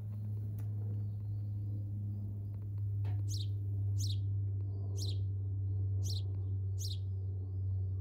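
A bird calling outdoors: five sharp, high notes, each falling in pitch, about one a second from around three seconds in. A steady low hum runs underneath.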